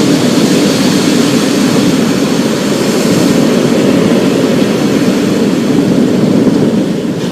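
Heavy rainstorm making a steady, loud, even roar, deepest in the low range, with no single claps or drops standing out.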